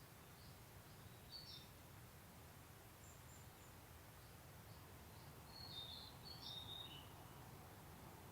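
Faint wild birds chirping: a short call about a second in and a quick run of chirps around six to seven seconds, over a low steady background rumble.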